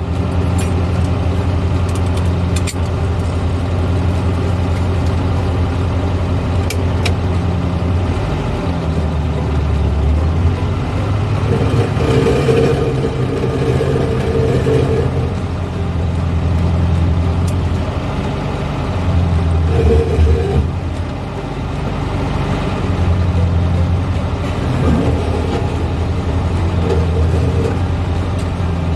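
A 1970s Volkswagen's engine running while the car is driven, its steady low hum shifting up and down in pitch several times as the engine speed changes.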